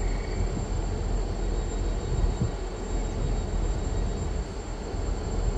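A train's steady low rumble, even in level, with a faint steady high whine above it.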